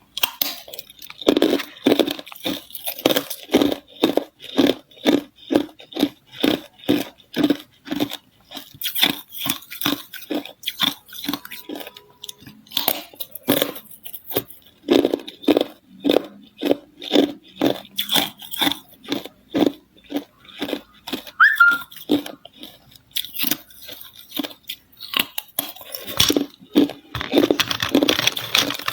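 Ice being bitten and chewed close to the microphone, a steady run of loud crunches about two to three a second.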